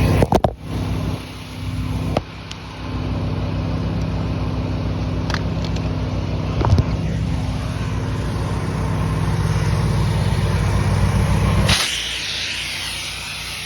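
Pressure washer's engine running steadily, with a few knocks of handling at the start. Near the end the engine hum drops and a spraying hiss starts.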